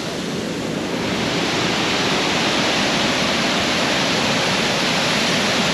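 Steady rush of falling or fast-flowing water, an even hiss that swells slightly in the first second and then holds level.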